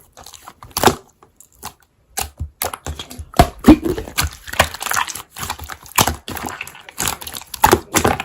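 Slime being squished and pressed by hand, making irregular clicks and crackling pops, with a short pause about a second in.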